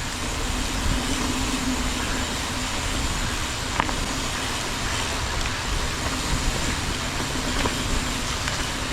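Mountain bike riding noise picked up by the on-board camera: a steady rush of tyres rolling over the dirt trail and wind on the microphone, with a low rumble and a few small clicks and rattles from the bike.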